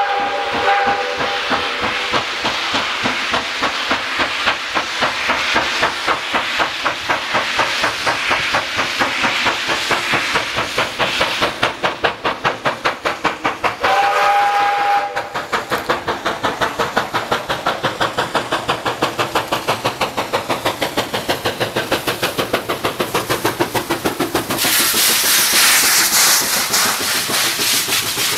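Steam locomotive working hard with fast, even exhaust chuffs. Its whistle ends about a second in and sounds again briefly about halfway through, and a loud hiss of steam comes near the end.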